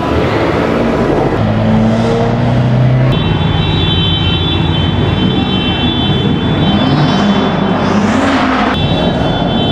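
Car engines running at a car meet, one revving up and down about seven to eight seconds in. A steady high-pitched tone joins in about three seconds in.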